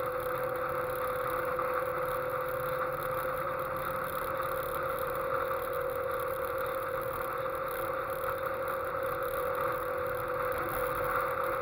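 Westfield sports car engine running at a steady cruise, its note held at an even pitch, under a constant rush of wind and road noise on the car's onboard microphone.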